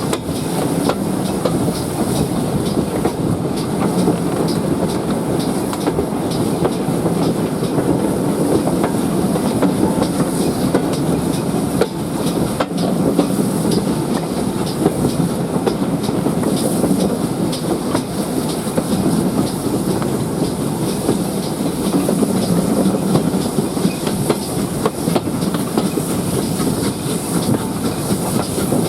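A steam-hauled train running steadily behind GWR Prairie 2-6-2 tank locomotive 5526, heard from aboard: a continuous rumble of wheels on track with a regular light clicking.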